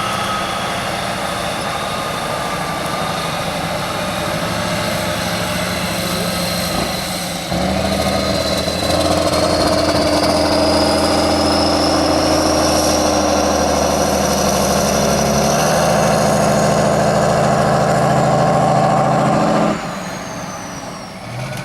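Heavy off-road competition truck's engine running steadily, then opening up hard about a third of the way in and held at high revs under load for about twelve seconds, with a high whine slowly rising in pitch, before easing back off near the end.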